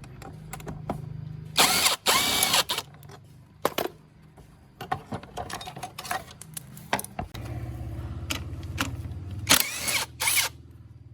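Off-road motorcycle engine running in the workshop: a low pulsing drone, broken by two short loud bursts, one about two seconds in and one near the end, with scattered metallic clicks.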